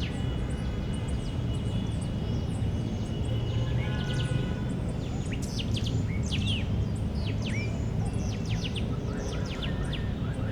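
Park ambience: several small birds chirping in short, quick downward-sweeping calls, busiest in the middle, over a steady low rumble of environmental noise.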